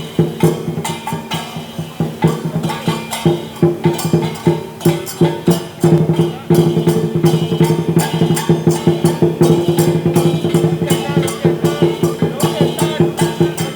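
Chinese dragon-dance percussion ensemble (drum, cymbals and gong) playing a fast, steady beat of strikes over a ringing cymbal-and-gong tone, getting louder and fuller about halfway through.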